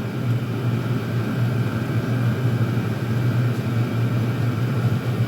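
Several Chinese diesel air heaters running together on high: a steady drone of their blower fans and burners with a strong low hum.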